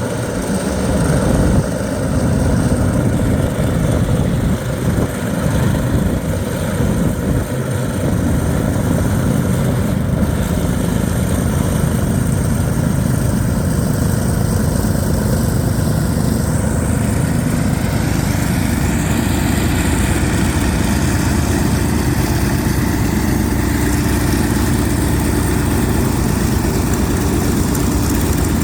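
Radial engine of a Corsair fighter running on the ground, a steady low sound that is a little uneven for the first several seconds and then settles evenly.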